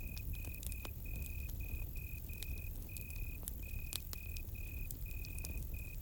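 Cricket chirping in short repeated bursts at one steady high pitch, over campfire crackle with scattered sharp pops and a low rumble.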